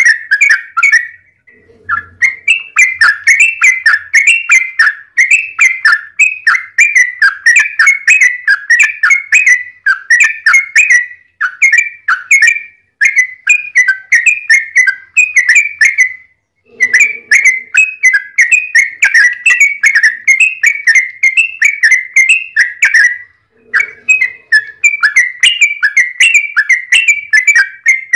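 Yellow-vented bulbul singing a long, fast run of chattering, bubbly notes with hardly a break, the extended 'ropel' song used to goad other bulbuls into singing. The run pauses briefly about two seconds in, near the middle, and again a few seconds before the end.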